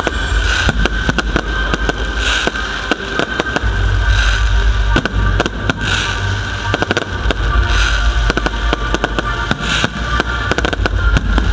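Fireworks display: shells bursting in rapid succession, many sharp bangs and crackles, with music playing underneath.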